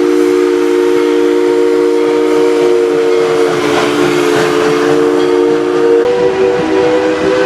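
A steam locomotive's three-note chime whistle blowing one long chord over a hiss of steam. The chord sags slightly in pitch midway and shifts slightly higher about six seconds in.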